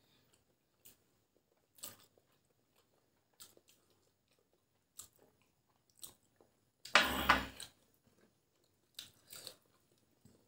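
Close-up eating sounds of boiled eggs being chewed: scattered soft mouth clicks and smacks, with one louder sound lasting under a second about seven seconds in.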